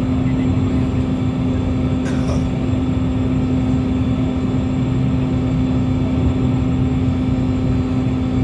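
Steady drone of the Toppy 2 jetfoil's gas turbines and waterjet propulsion running, with one strong, constant low hum over a rumble.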